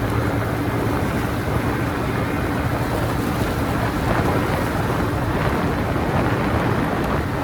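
Vehicle on the move: a steady low engine and road rumble mixed with wind noise on the microphone.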